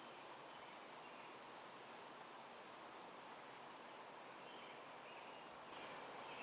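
Near silence: faint outdoor background hiss with a few faint, short, high bird chirps.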